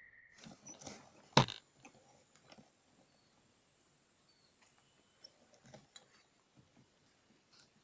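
A steady insect buzz cuts off just after the start, followed by rustling handling noise and one sharp knock about a second and a half in, the loudest sound. Scattered faint clicks follow, with a few faint high chirps.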